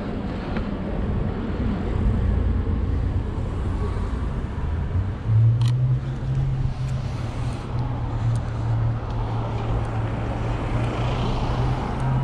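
City street traffic with a car engine running close by: a low rumble, then a steady low engine hum that sets in about five seconds in and holds, with one sharp click near the middle.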